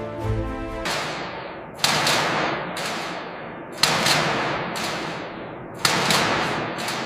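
Aluminium scrap being crushed: about five heavy crashing impacts, one to two seconds apart, each trailing off in a long fading rush of noise.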